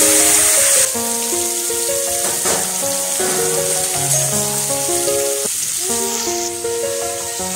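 Raw mango slices frying in hot oil in a steel kadhai: a steady sizzle, loudest for about the first second and then quieter, under instrumental background music.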